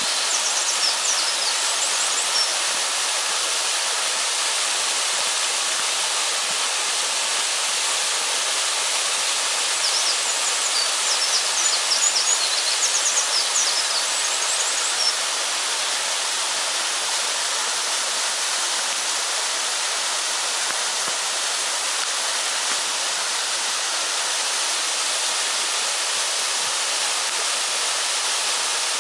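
Waterfall rushing steadily, a loud even wash of falling water. Short high chirps come through near the start and again about ten to fifteen seconds in.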